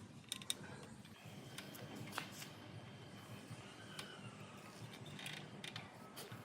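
A few faint, scattered light clicks and taps over a low steady background hum.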